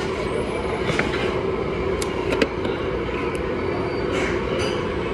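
Steady hum of street traffic, with a few short clicks and knocks.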